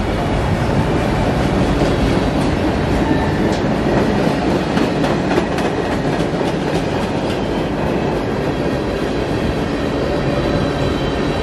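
Freight cars rolling past at close range: steel wheels rumbling steadily on the rails, with a run of sharp clicks and clanks from about two to seven seconds in.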